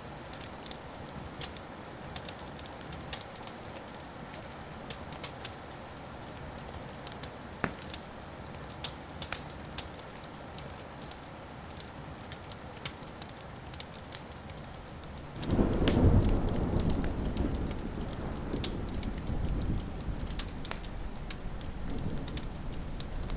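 Wood fire crackling, with scattered sharp pops and snaps. About two-thirds of the way through, a long rolling rumble of thunder starts suddenly and keeps rumbling.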